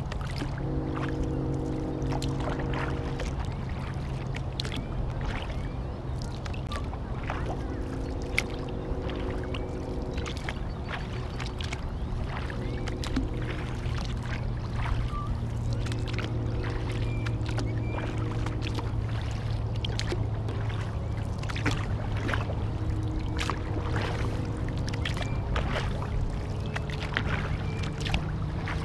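Kayak paddle strokes in lake water, with irregular splashes and drips, over a steady low hum. A pitched drone comes and goes in stretches of a few seconds.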